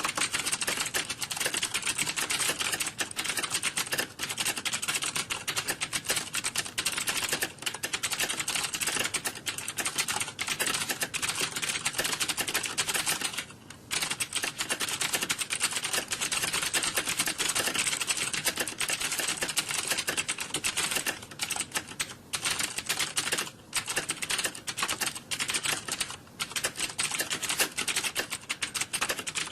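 Computer keyboard typing: rapid, continuous key clicks with a few short breaks, one about halfway through.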